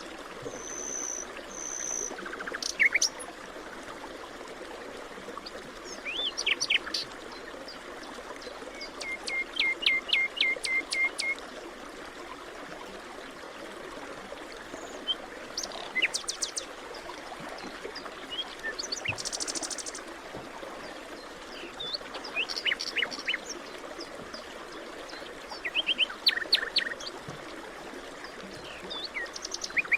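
Forest birds chirping and singing in short separate phrases every few seconds, one of them a quick run of a dozen or so repeated notes, over a steady background rush.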